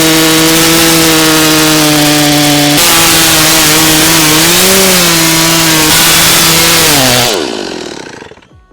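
Gas chainsaw running at full throttle, cutting into a cedar trunk, loud and steady with a slight wobble in pitch midway. Near the end the revs drop and the saw winds down to a stop.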